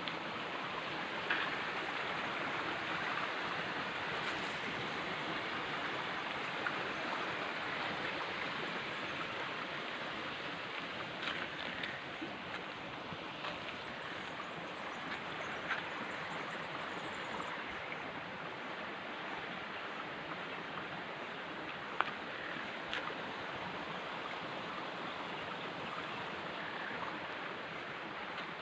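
Steady rush of running water, with a few faint clicks now and then.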